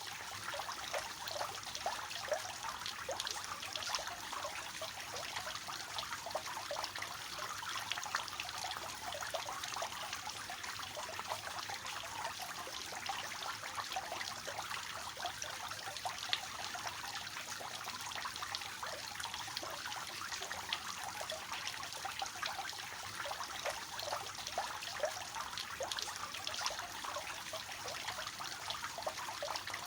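Water falling from a three-tiered cascading fountain, a steady splashing trickle into the basin below.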